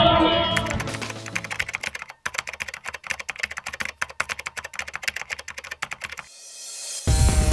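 Keyboard typing sound effect: a quick, irregular run of key clicks that goes with text typing itself out on screen. Music fades out at the start, and near the end a rising whoosh swells before music cuts back in.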